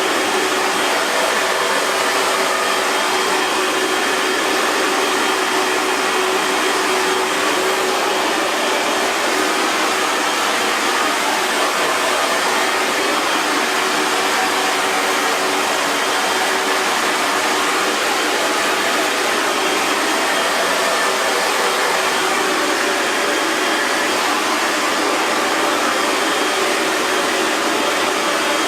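Hair dryer blowing steadily: a constant rush of air with a faint motor hum under it, unchanging throughout.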